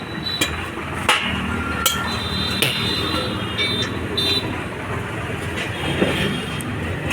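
Tractor diesel engine idling steadily, with a handful of sharp metallic knocks and clinks over it.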